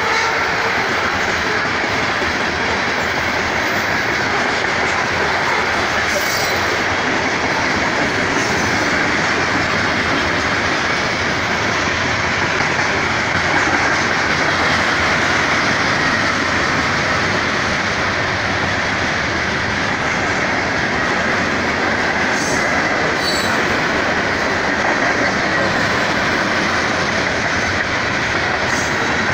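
BNSF freight train's covered hoppers and tank cars rolling past at a grade crossing: steel wheels running on the rails, a steady, unbroken noise.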